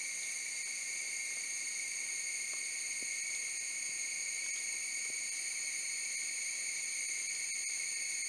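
Insect chorus in the forest: a steady, high, unbroken drone of several layered pitches, with a few faint clicks near the end.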